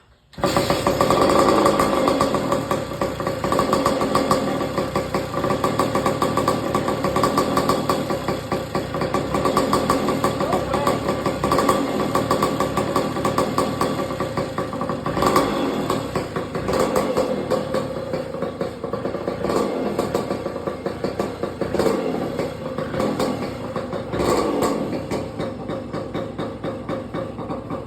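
A 1986 Kawasaki KDX80's two-stroke single-cylinder engine starts on the first kick from cold and keeps running, with its revs rising and falling. It cuts out at the very end: a stall.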